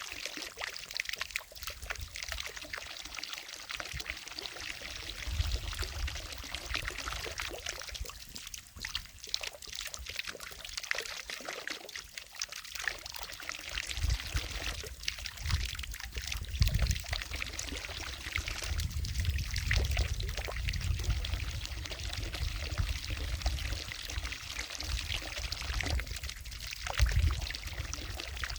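Water falling from a fountain into a lake, a continuous splashing pour, with irregular low rumbles coming and going underneath.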